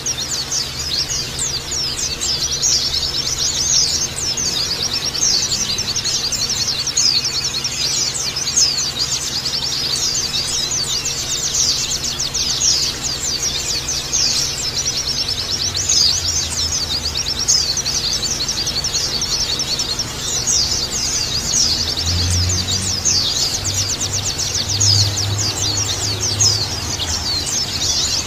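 A flock of white-eyes twittering together: a dense, unbroken stream of many overlapping high-pitched chirps, each note a quick downward slide. A faint low hum runs underneath.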